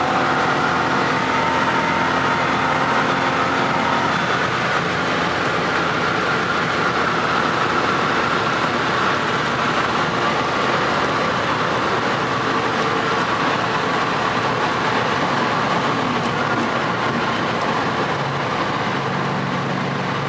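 A car running steadily, engine and exhaust note mixed with a dense rushing noise. The pitched engine note stands out more in the first few seconds, then blends into the steady rush.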